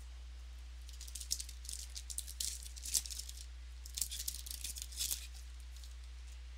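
Stiff trading cards being handled and flipped through: a string of crisp, irregular rustles and clicks over a steady electrical hum.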